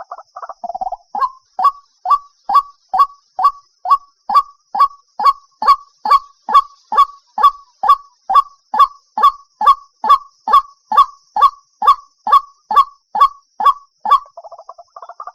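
White-breasted waterhen calling: a steady run of about thirty sharp notes, each falling in pitch, a little over two a second. A faster, jumbled chatter comes just before the run and again just after it near the end.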